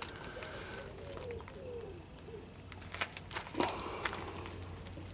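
A pigeon cooing in a wavering, repeated phrase for the first couple of seconds, then a few sharp knocks about three to four seconds in, over a steady low hum.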